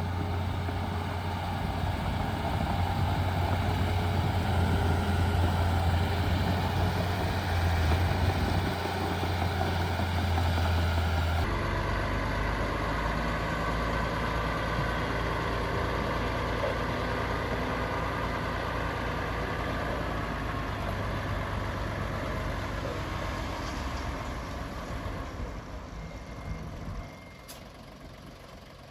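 Heavy diesel engines of dump trucks and a bulldozer running with a steady low drone. The sound changes abruptly a little over a third of the way in and falls off near the end.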